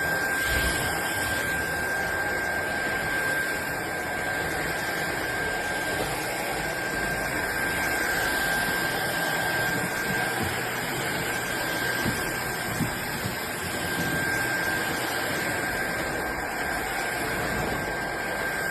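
iXlion cordless stick vacuum running steadily: a continuous rushing of motor and airflow with a constant high whine over it.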